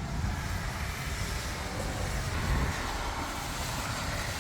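Thunderstorm noise: a steady low rumble under an even hiss, with no single crack or clap.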